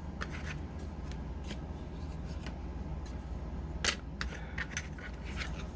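Light clicks and taps of small craft objects being handled on a tabletop, with one sharper click about four seconds in, over a steady low hum.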